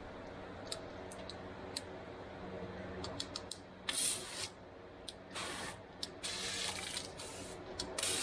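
Liquid cleaner sprayed in short hissing bursts from about four seconds in, after a few sharp clicks in the first seconds.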